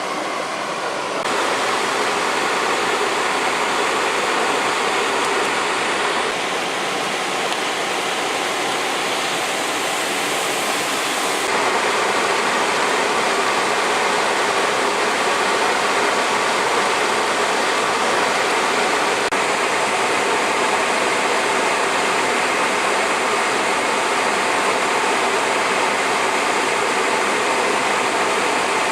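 Heavy rain pouring down as a loud, steady hiss, growing louder about a second in and again about eleven seconds in.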